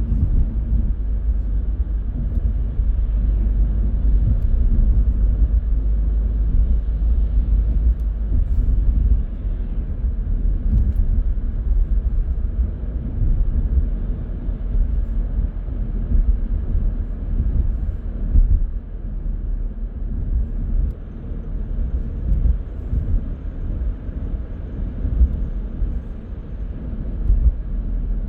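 Car driving along a road: a steady low rumble of road and engine noise that swells and eases a little.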